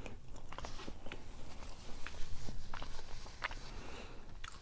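Close-miked chewing of rotisserie chicken: soft, scattered wet mouth clicks and smacks.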